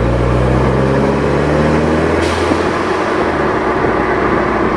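VW Mk6 GTI's turbocharged 2.0-litre four-cylinder, muffler deleted, pulling hard under acceleration with its note rising in pitch. A little over two seconds in, the automatic gearbox upshifts, the revs drop with a brief burst of noise, and the engine pulls again.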